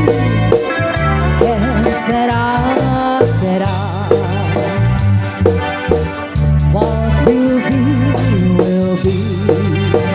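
Live band playing an instrumental passage: a keyboard with an organ-like tone carries a wavering melody over steady bass notes and an even drum beat.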